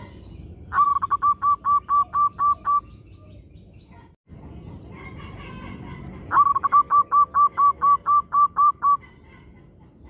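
Zebra dove (perkutut) singing: two bursts of rapid, evenly spaced cooing notes, about four to five a second. The first burst comes about a second in, the second past the middle.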